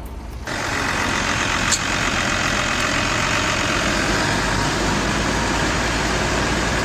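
Heavy machinery engine running steadily under a dense rushing noise, cutting in abruptly about half a second in. A single short knock comes near the two-second mark.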